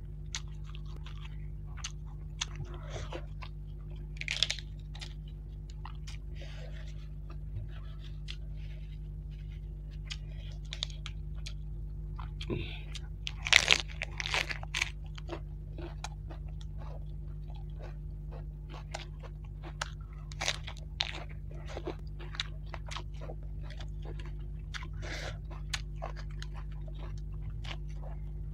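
Close-miked chewing and crunching of fried rohu fish eaten by hand, with wet mouth sounds and scattered crisp crunches. The loudest run of crunches comes about halfway through. A steady low hum runs underneath.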